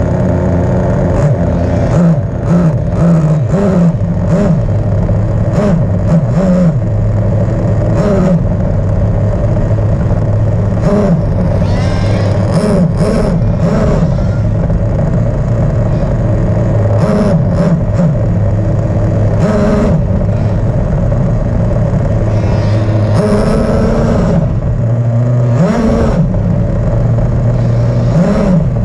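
Nitro RC car engine, a small glow-fuel two-stroke, running at a steady idle and revved in many quick blips, the pitch jumping up and dropping back again and again.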